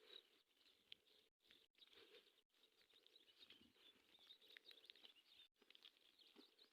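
Near silence: faint outdoor ambience with scattered faint high chirps, cut by a few brief total dropouts.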